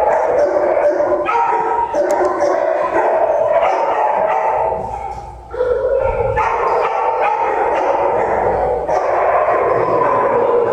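Many shelter dogs barking and yipping together in a continuous din, with a brief lull about five seconds in.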